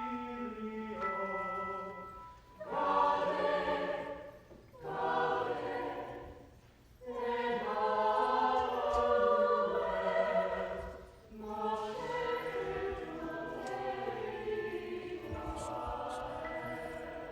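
High school choir singing sustained chords, in several phrases with short breaks between them.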